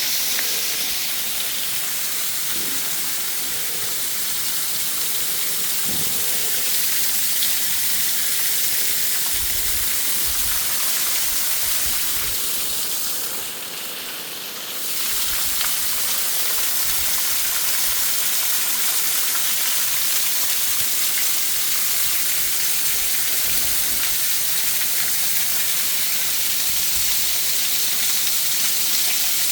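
Waterfall: a steady, loud rush of falling water, dipping briefly about halfway through.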